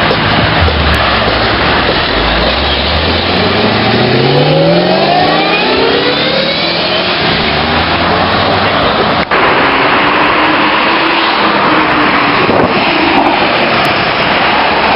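A car's engine accelerating, its pitch rising steadily for about five seconds, over a loud, steady rushing noise.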